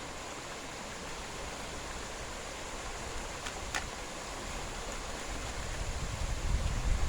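Steady outdoor night hiss, with a faint click a little past halfway, and wind buffeting the microphone in low rumbles that build near the end.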